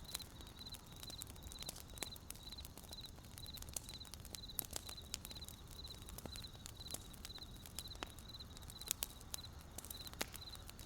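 Wood campfire crackling with irregular sharp pops, over a cricket chirping steadily in short high chirps about three times a second.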